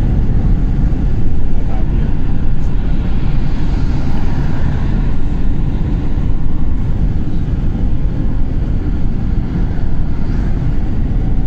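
Loud, steady low rumble of a vehicle on the move, with no clear engine note.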